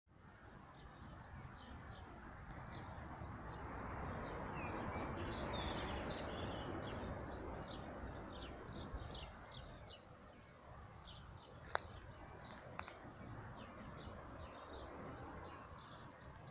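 Small birds chirping and singing in many short, high calls over a steady outdoor rush that swells around the middle and fades again. Two sharp clicks come about three-quarters of the way through.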